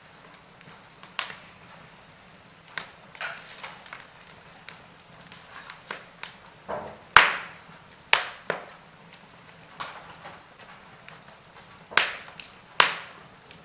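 Wood fire crackling in a fireplace: irregular sharp pops and snaps over a faint steady hiss, the loudest pop a little past seven seconds and another cluster near the end.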